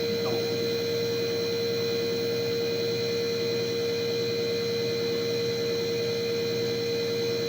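A common-rail diesel injector test bench running with a Renault Duster injector fitted for a high-pressure test. It gives a steady high-pitched hum over a fast, even pulsing.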